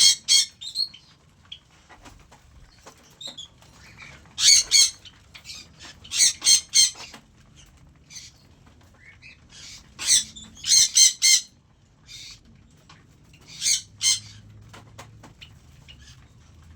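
Cockatiels calling in clusters of two to four quick, high calls, about five clusters, with quieter gaps between them.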